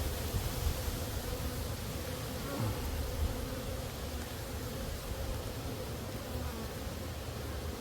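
Honey bees buzzing around an open hive, a steady hum.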